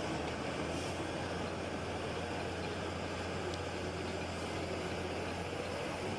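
Heavy vehicle engine running steadily, a low even drone with no change in speed.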